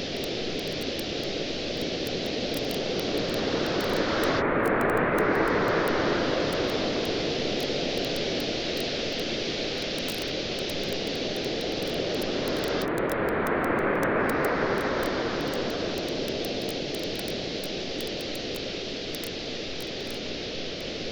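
Ocean waves washing onto the shore, swelling twice about nine seconds apart, with a wood campfire crackling in many small pops over them.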